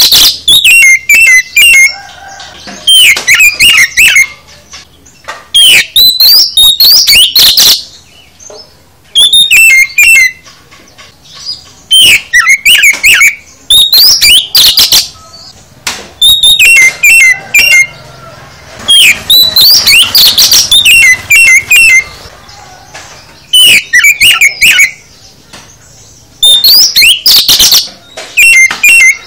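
Oriental magpie-robin (kacer) singing loud bursts of rapid chirps and whistles, each phrase one to two seconds long, with short pauses between them. The song is varied and full of mixed-in phrases (full isian).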